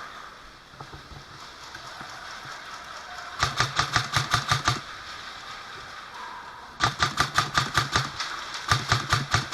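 Airsoft electric rifle firing full-auto bursts: three runs of rapid sharp cracks at about ten shots a second, the first about three and a half seconds in, the next two from about seven seconds in to the end.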